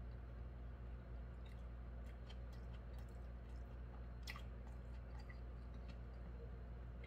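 A person chewing a mouthful of hamburger with the mouth closed, making soft wet mouth clicks, one sharper click about four seconds in, over a steady low hum.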